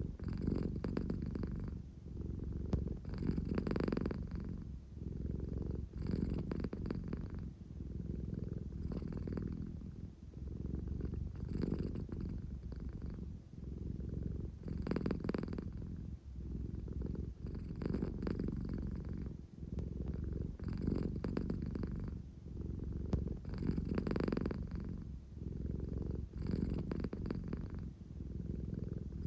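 An American Shorthair cat purring close to the microphone, a steady rumbling purr that swells and eases with each breath about every three seconds. This is her sleepy, affection-seeking purr.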